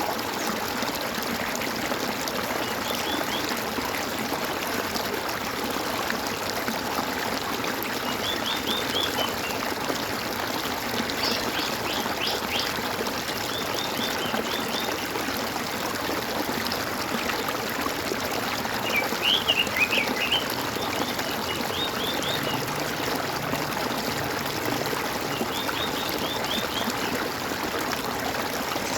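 Water gurgling and trickling steadily, as from a small stream. A bird calls in short quick chirping phrases every few seconds, loudest about two-thirds of the way through.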